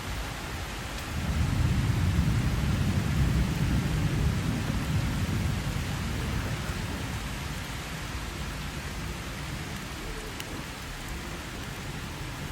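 Steady rain with a long roll of thunder that rumbles in about a second in, is loudest over the next few seconds, then slowly dies away.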